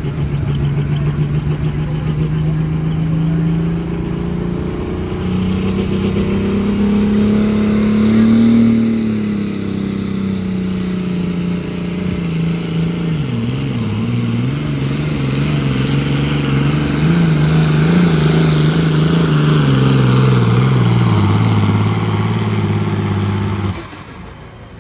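Pulling tractor's engine running hard at high revs while dragging a pulling sled. The pitch climbs, wavers in the middle of the run, sinks toward the end, then cuts off suddenly near the end.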